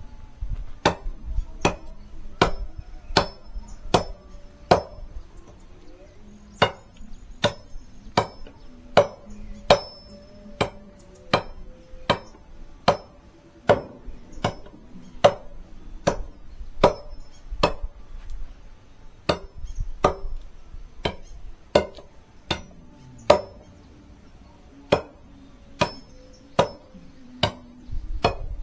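Firewood being chopped by hand: sharp, ringing blade strikes into wood, about one every three quarters of a second, in runs with a few short pauses.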